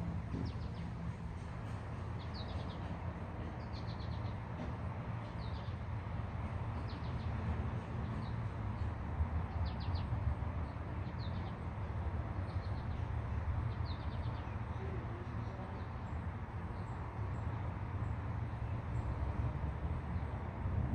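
A bird chirping in short, repeated calls about once a second, over a steady low rumble of outdoor background noise.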